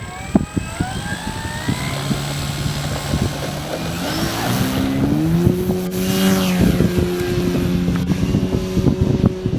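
Electric motor and propeller of a 2.7 m Extra 330LX RC aerobatic plane, running with a pitched whine. The pitch steps up about halfway through as the power comes up, then holds. Wind buffets the microphone throughout.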